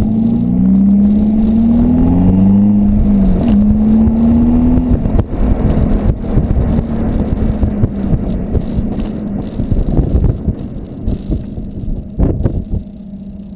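Volkswagen Golf 2.0 TDI diesel with a 3-inch Cortek high-flow cat exhaust, running under way. Its exhaust note rises and falls with engine speed over the first few seconds, then turns to a rougher stretch thick with flapping noise, and it quietens near the end.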